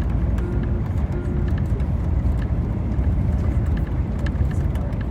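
Steady low road and engine rumble of a moving tour coach, heard from inside the cabin, with scattered faint clicks and rattles. Two short faint tones sound about half a second and a second in.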